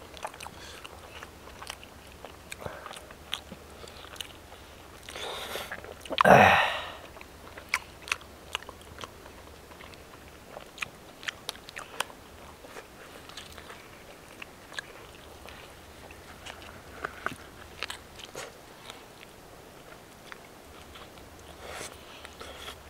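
Close eating sounds: biting and chewing chicken on the bone, with many small scattered clicks and smacks. A short voice sound about six seconds in is the loudest thing.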